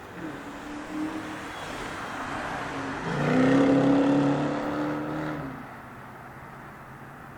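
A motor vehicle passing close by, its engine note swelling to a peak about three seconds in and fading about two and a half seconds later.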